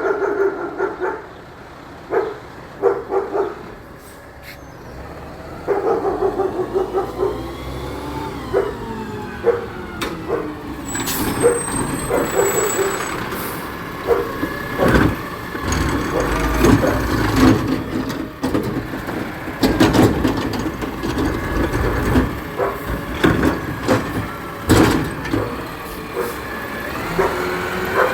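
Garbage truck at work: a heavy diesel engine rising and falling in pitch, air-brake hisses and repeated loud bangs and clanks from about ten seconds in. A dog barks several times in the first few seconds.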